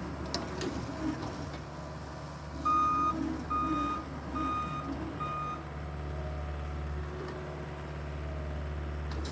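Engine of the machine driving a power rake running steadily, with a backup alarm beeping four times in the middle as it reverses.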